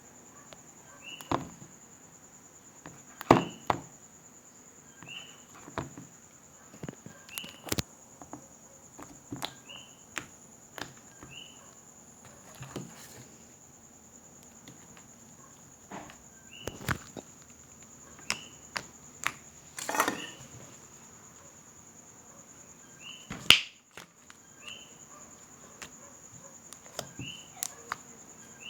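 Slime being handled: irregular wet clicks, squishes and small pops, with a sharp louder click about three seconds in and another near the end. A steady high-pitched whine sits behind them.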